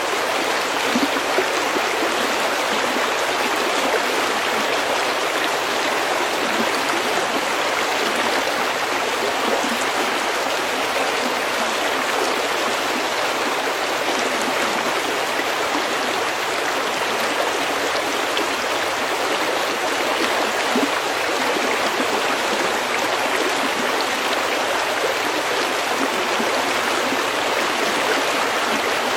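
Snowmelt stream flowing, a steady, even rush of running water with no distinct drips or splashes.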